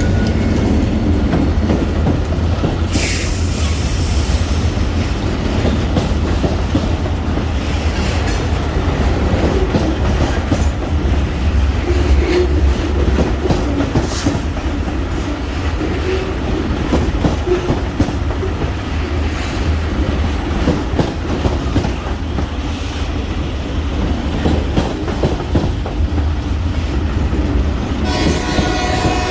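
Kiamichi Railroad freight train rolling past: a steady deep rumble of the cars with clicks of wheels over the rail joints. About a second before the end, a horn starts to sound.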